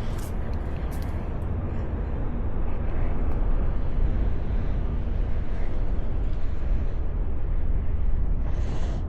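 Wind buffeting the microphone with a steady low rumble that grows a little stronger a few seconds in, with a short hiss near the end.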